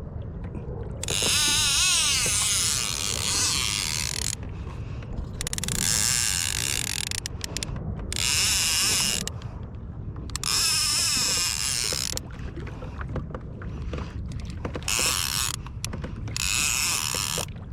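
Fishing reel cranked in bursts of one to three seconds, its gears whirring as a hooked fish that is not fighting much is reeled in, over a steady low rumble of wind and water.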